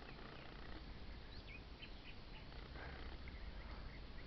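Faint outdoor ambience with a few short, high bird chirps, one of them dropping in pitch about one and a half seconds in.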